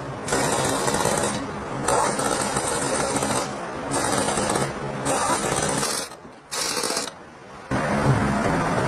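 A tractor engine running with a harsh clattering noise that starts and stops roughly every second. The sound drops away briefly about six seconds in and again about seven seconds in.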